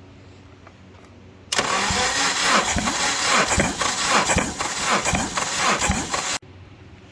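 Acura K24A3 2.4 L four-cylinder engine turning over on its starter, with an uneven pulsing beat; it starts abruptly about a second and a half in and cuts off sharply about five seconds later.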